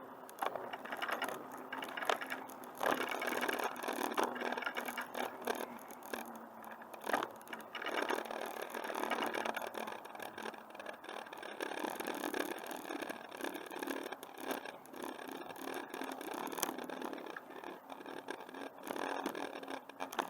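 Bicycle rolling along a trail: an irregular rattling and clicking of the bike's parts, with scraping over bumps in the path.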